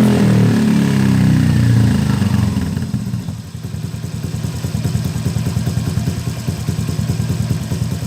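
Motorcycle fitted with an R9 aftermarket exhaust: the revs fall away over the first three seconds and the engine settles into an idle, with the exhaust pulsing rapidly and evenly.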